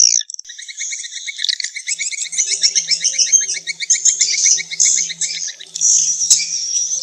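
Swiftlet calls, the kind of recording played in swiftlet nest houses to lure the birds: fast, continuous trains of high chirping twitters repeating many times a second.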